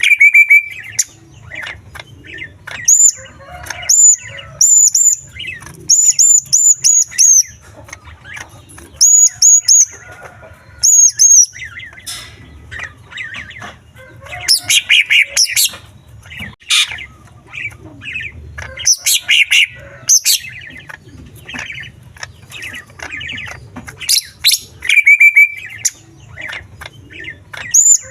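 Greater green leafbird (cucak ijo) singing a loud, varied song packed with mimicked small-bird calls. Clusters of high, sharp down-slurred notes alternate with lower warbling phrases, with short gaps between bursts, over a faint low hum.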